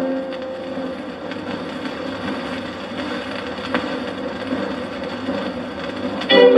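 Shellac 78 rpm record surface noise between tunes: steady hiss and crackle from the needle with a faint low hum and an occasional click. Dance band music comes back in suddenly near the end.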